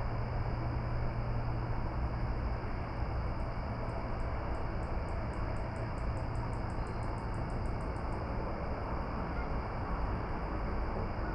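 Outdoor dusk ambience: a steady low rumble and hiss. From about three seconds in to about eight seconds, a rapid even series of faint high ticks runs at about five a second.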